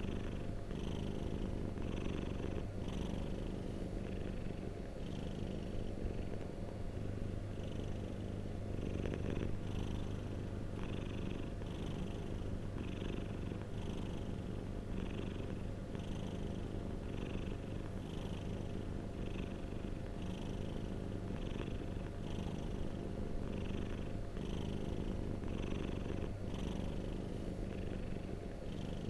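Domestic cat purring steadily: a continuous low rumble, with a higher rasp that swells and fades about once a second.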